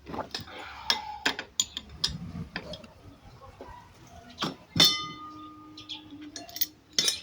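Metal tools and parts clinking and knocking while a front-load washing machine's drum is being prised apart, with one ringing metallic clang a little under five seconds in.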